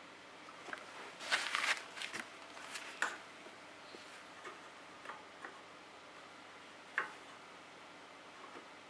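Faint scattered clicks, ticks and brief plastic rustling from handling the oil bottle, funnel and hose while engine oil is poured into the snowblower's filler. There is a short burst of rustling about a second and a half in and a sharper click near the seven-second mark.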